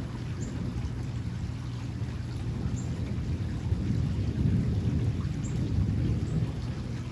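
Low rolling thunder over steady rain noise. The rumble swells about four seconds in and eases off again near the end.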